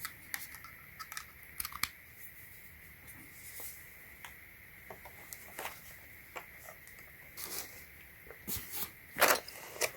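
Packaging being handled: scattered soft rustles, crinkles and small clicks, with a louder burst of crinkling near the end.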